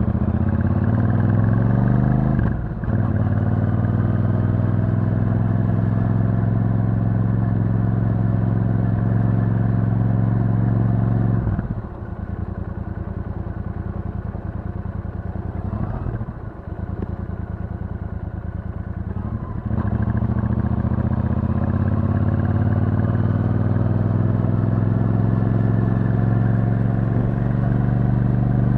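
Royal Enfield Super Meteor 650's 648 cc parallel-twin engine through its stock exhaust, heard from the bike while riding. The note rises under acceleration with a brief break a few seconds in, as at a gear change, and then runs steadily. Past the middle it drops back quieter for several seconds, with another short dip, and then picks up to a steady, louder note again.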